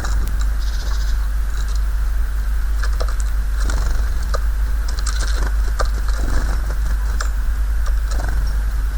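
A woodpecker pecking at lard: irregular light taps and clicks, several a second at times, over a steady low hum.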